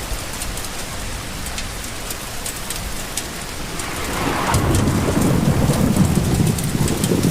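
Steady rain with scattered sharp drop ticks. About four seconds in, a low rumble of thunder builds and keeps rolling under the rain.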